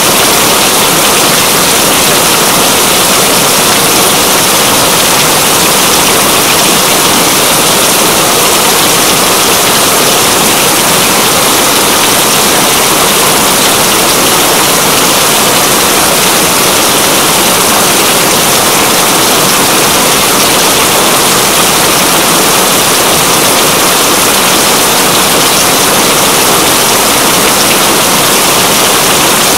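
Rain falling steadily, a dense, even hiss that does not change.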